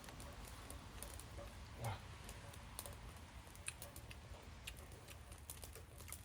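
Wood fire crackling with scattered sharp pops at irregular intervals over a faint low rumble, and one soft thump about two seconds in.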